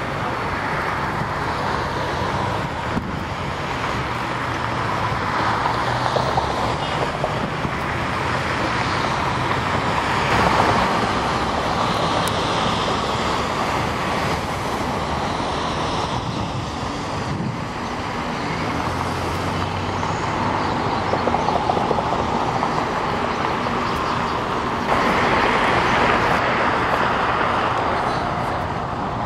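Steady roar of the jet engines of an Airbus A340-300 at the airport, getting louder about 25 seconds in.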